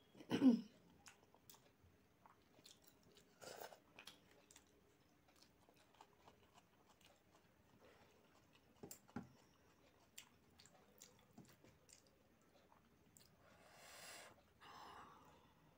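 Faint, close-miked chewing and wet mouth sounds of a person eating rice and curry by hand, with soft clicks and squishes as fingers mix the rice on the plate.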